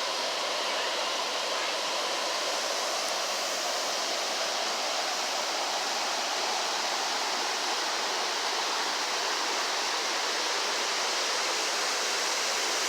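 Waterfall rushing steadily, an even hiss of falling water without a break.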